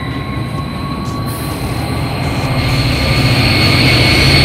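NJ Transit diesel locomotive and passenger coaches rolling past, with a steady high-pitched wheel squeal over the rumble of the train. The locomotive's engine grows louder from about halfway through as it comes alongside.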